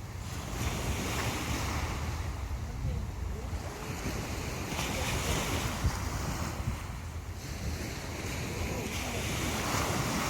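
Sea waves breaking and washing up the shore, with swells of surf coming in about every four seconds. Wind buffets the microphone underneath as a steady low rumble.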